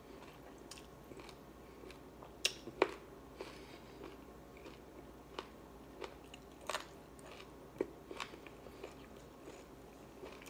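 A person chewing a mouthful of rice and meat, quietly, with irregular sharp mouth clicks scattered through, the loudest a pair about two and a half seconds in and another near the middle.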